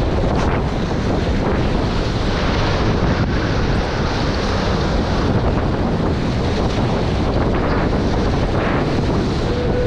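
Steady wind buffeting the microphone over water rushing and splashing along the hulls of a Nacra 20 beach catamaran under sail.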